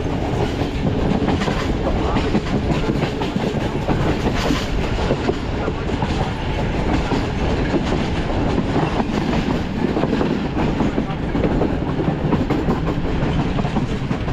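Train running steadily along the track, heard from aboard: a continuous rumble of wheels on rails and coach noise.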